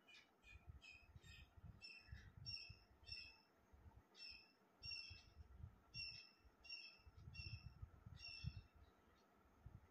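A bird chirping faintly over and over in short, evenly repeated calls, about two a second, over a faint low rumble.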